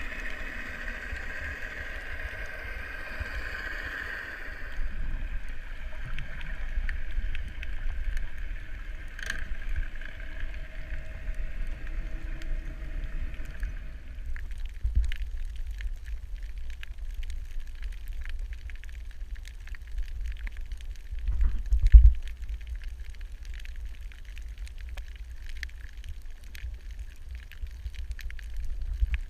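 Underwater ambience: a steady low rumble of water moving around the microphone, with a dense crackle of fine clicks from about halfway on.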